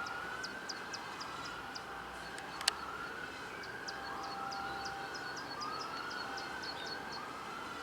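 A faint siren-like whoop, repeating about every second and a half: each one rises in pitch and then holds. A steady lower tone runs beneath it, and quick high chirps are heard over it.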